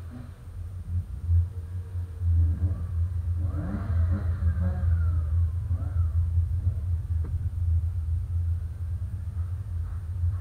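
Hyundai Coupé 1.6 16v four-cylinder engine running at low revs under light load as the car is driven slowly, with a steady low drone. The revs rise and fall briefly about four seconds in.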